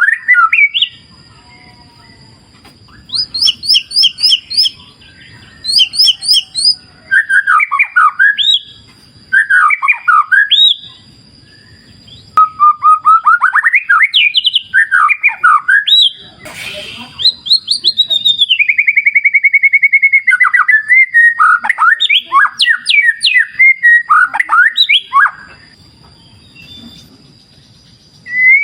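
White-rumped shama (murai batu) singing: loud, varied phrases of whistled notes and fast trills, broken by short pauses. A faint low rush of river water fills the gaps between phrases.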